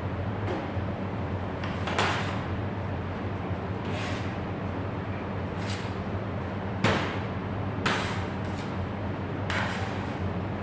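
About six sharp knocks and clatters at irregular intervals, with the loudest near the middle, over a steady low hum.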